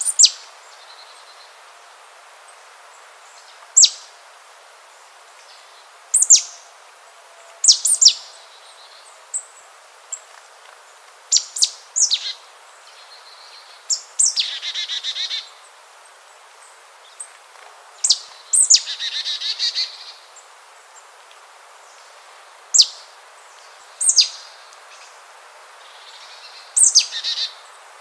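Bird calls: short, sharp notes sweeping steeply down from very high, repeated every one to four seconds, with two longer buzzy, rattling calls, the first about fourteen seconds in and the second about nineteen seconds in, over a steady background hiss.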